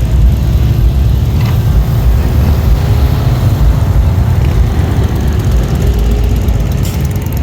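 Motorcycle engines rumbling in street traffic, a dense, steady, low sound with a faint engine note rising and falling.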